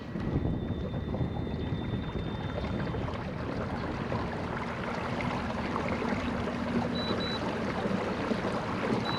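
Kayak under way on open water: a steady rush of water along the hull, with wind on the microphone.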